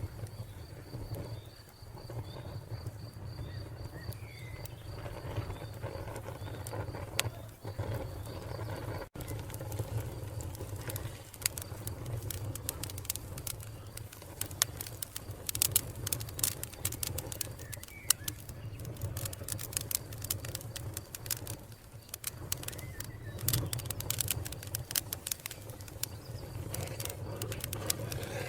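Wood fire crackling with many sharp pops over a low rumble, the pops busier in the second half. A cricket chirps in a steady pulsing trill until an abrupt cut about nine seconds in, and a bird gives a few faint chirps.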